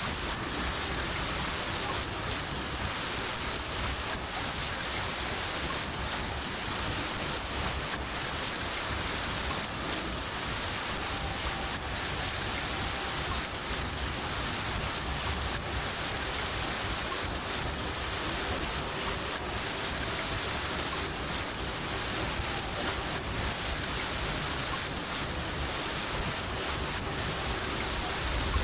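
A cricket chirping steadily, about three chirps a second, over the even hiss of steady rain, with a low rumble of thunder underneath.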